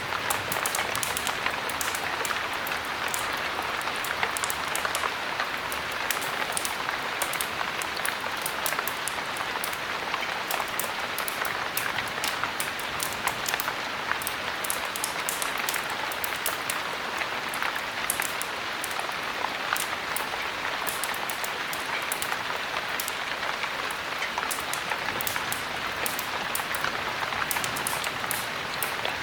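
Heavy rain falling steadily: an even, dense hiss sprinkled with many small, sharp ticks.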